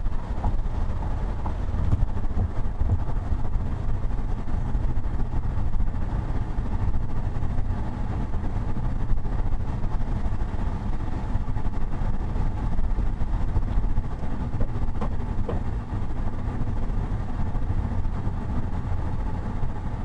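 Steady low rumble of a car's engine and tyres while driving on the road, as recorded by a dashcam.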